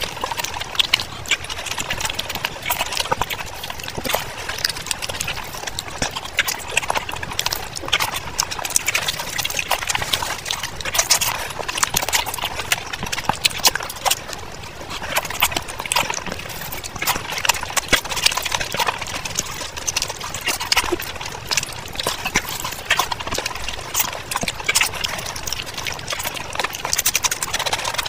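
Close-miked eating sounds: wet chewing and lip smacks of fried fish and rice eaten by hand, with squishing as fingers mix the rice and curry, a steady run of small clicks.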